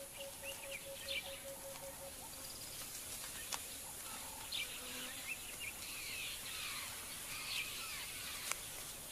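Quiet bush ambience: scattered short bird chirps and calls over a faint steady hiss, with a faint pulsing tone that fades out about two seconds in.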